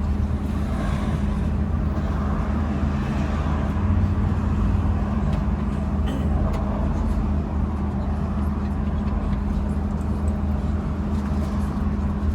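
MAZ-203T trolleybus riding, heard from inside the cabin: a steady low hum with road rumble and a few light clicks and rattles.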